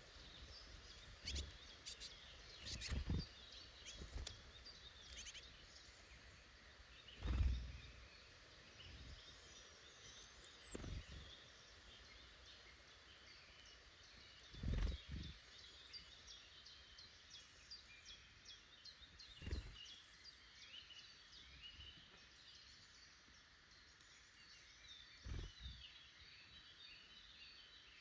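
Faint chirps and song of small woodland birds, many short high notes overlapping. About eight dull thumps come at irregular intervals, a few seconds apart.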